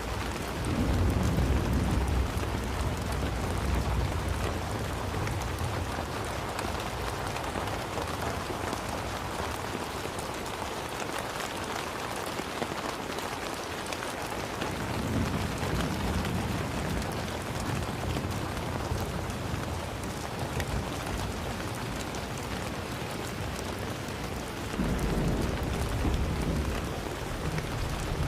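Steady rain falling, a dense even patter of drops. Three times, near the start, about halfway and near the end, a low rumble swells up under it and fades.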